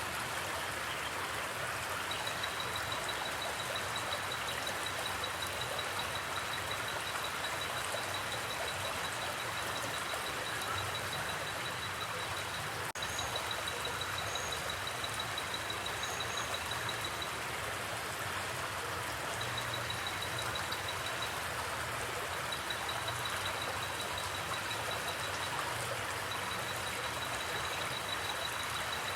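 Steady rushing of a forest river or creek flowing over rocks. Over it, a high, fast-pulsing trill comes and goes in long stretches, with a few short, higher chirps.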